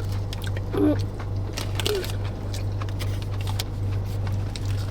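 Eating sounds inside a car: small clicks and rustles of food and wrappers over a steady low hum. A short vocal sound comes about a second in, and a fainter one near two seconds.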